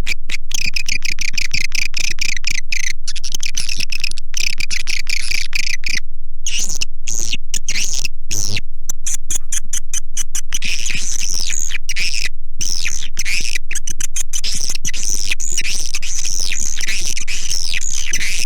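Swiftlets twittering in rapid, dense chirps, many per second. It is a swiftlet lure recording, the kind played to call the birds into a swiftlet house.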